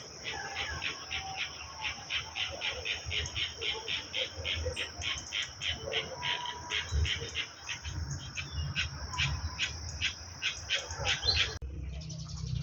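A bird calling in a fast run of short, sharp high notes, about four or five a second, over a steady high-pitched drone. Both cut off abruptly near the end.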